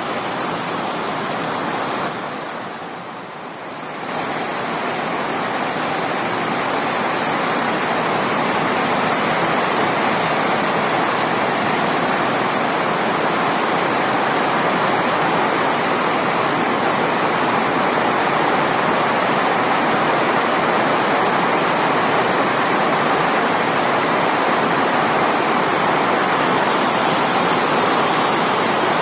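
Heavy rain pouring down in a steady, dense hiss, dipping briefly in loudness about two seconds in before settling back.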